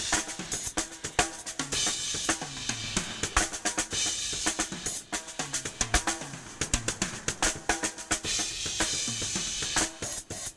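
Drum kit solo: fast, dense snare and bass drum strokes with rimshots and tom fills, the toms dropping in pitch as they ring, over a wash of cymbals.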